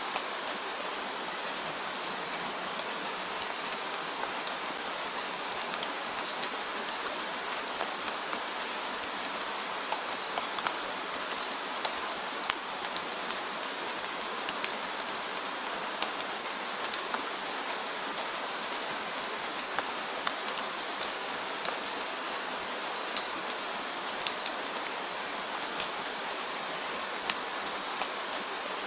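Steady rain falling, an even hiss with many scattered sharp taps of individual drops.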